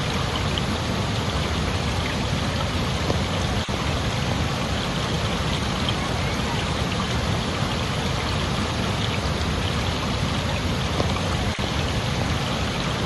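Steady rushing water, an even unbroken wash of noise.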